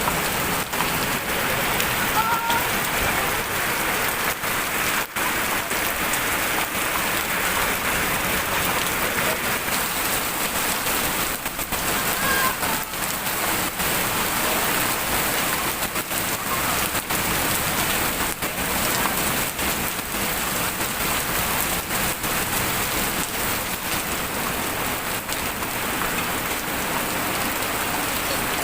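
Heavy rain falling steadily, a dense even hiss with no pause.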